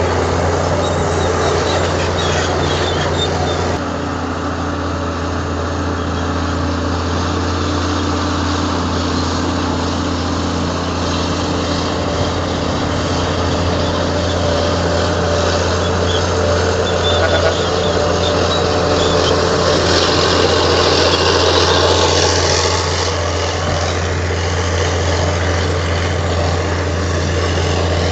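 Komatsu D58 bulldozer's diesel engine running steadily while working, with a low, even hum throughout. It gets louder and harsher for several seconds past the middle, then settles back.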